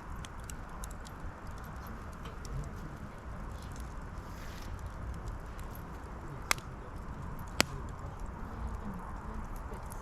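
Brushwood fire burning with a steady crackle of small ticks, and two sharp loud pops a little past the middle.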